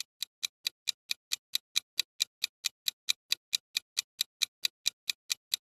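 Ticking-clock countdown effect: crisp, evenly spaced ticks about four and a half a second, growing louder over the first second and then steady.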